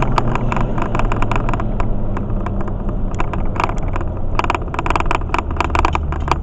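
Steady road and engine drone inside a moving car with a window open, with wind buffeting the microphone in irregular crackles.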